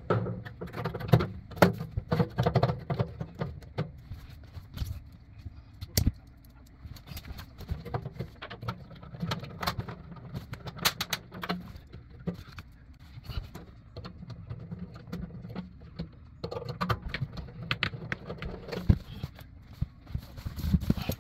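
Irregular clicks, clinks and knocks of metal parts being handled and fitted back onto a gas water heater's burner compartment, with one sharp knock about six seconds in.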